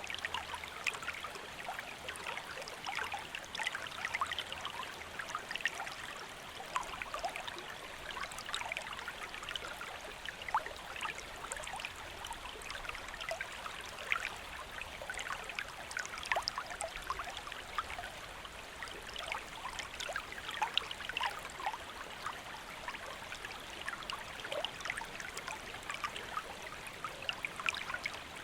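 Shallow stream flowing over stones, a steady rush with many small splashes and trickles.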